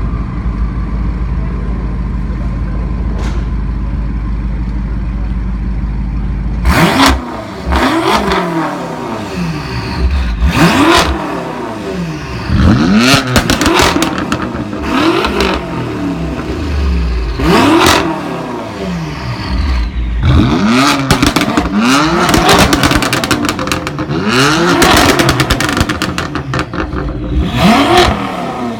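A performance car engine through a loud aftermarket exhaust idles steadily, then from about seven seconds in is blipped over and over, around a dozen quick revs that rise and fall, with crackling as each one drops back.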